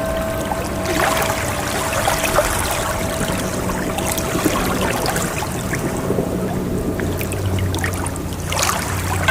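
Ocean waves washing and fizzing in a steady noisy rush that swells about a second in and again near the end. A faint held tone of background music fades out in the first few seconds.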